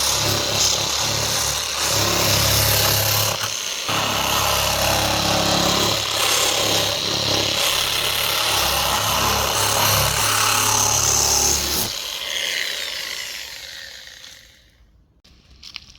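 A handheld power tool running under load with a rough, rubbing texture, then switched off about twelve seconds in and winding down.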